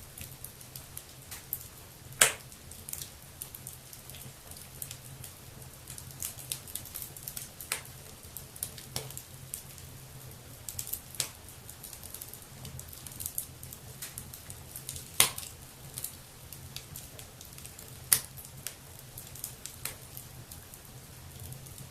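Wood fire burning in a fireplace, crackling with frequent small snaps at irregular intervals. A few louder pops stand out, about two seconds in, near fifteen seconds and near eighteen seconds.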